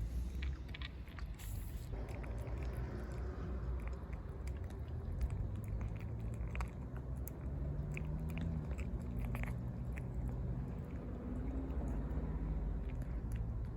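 A cat eating from a bowl: repeated small chewing and biting clicks, irregular and close together.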